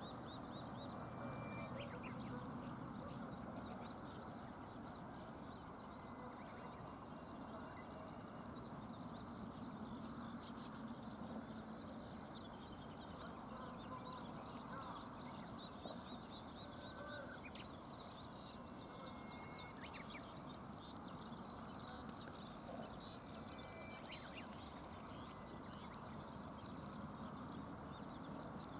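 Wild birds calling over the steady rush of a river: short high whistled notes come and go, and through the middle a long rapid trill of evenly spaced high notes runs for about twelve seconds.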